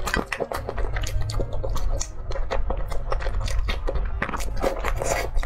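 Close-miked chewing and biting of noodles, a dense run of irregular mouth clicks and smacks.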